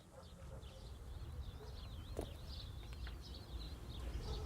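Small birds chirping and twittering in quick wavy calls over a steady low rumble, with a single sharp click about two seconds in.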